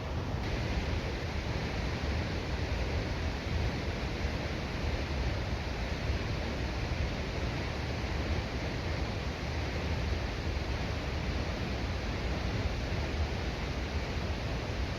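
Steady road noise of a car driving: a constant low rumble under an even rushing hiss.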